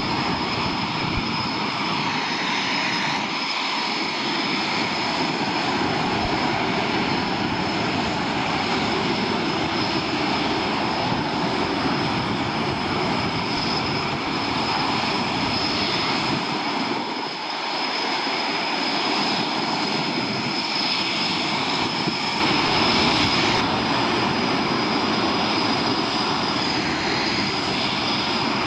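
Military jet aircraft engines running continuously during a mass take-off, with a steady high whine over a dense noise. It gets somewhat louder about 22 seconds in.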